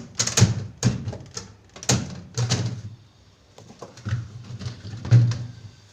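Containers and trays being taken out of a refrigerator, clattering and clunking as they are handled and set down: a quick series of knocks, with a short lull about halfway.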